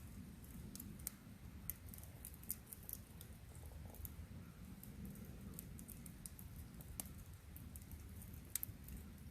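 Wood campfire crackling faintly: scattered sharp snaps at irregular intervals over a low rumble.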